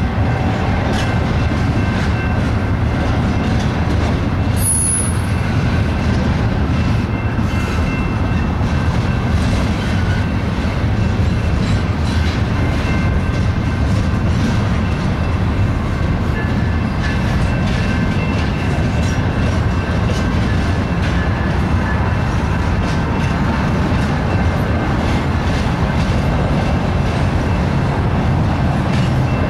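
Double-stack intermodal freight train's well cars rolling past: a steady, loud rumble of steel wheels on rail, with a faint high squeal from the wheels and scattered clicks.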